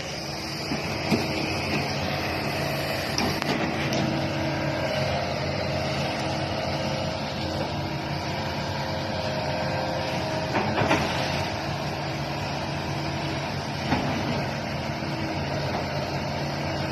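Radio-controlled excavator running with a steady mechanical hum, with a few light knocks along the way.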